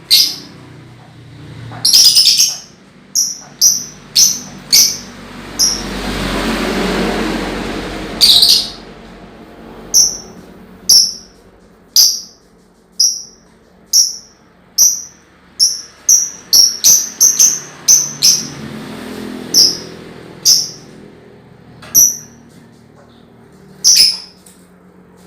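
Young lovebird calling in short, sharp, high chirps, roughly one a second, with a quicker run about two-thirds of the way through: a juvenile practising the long chattering 'ngekek' call. A broad swell of background noise rises and fades about a quarter of the way in.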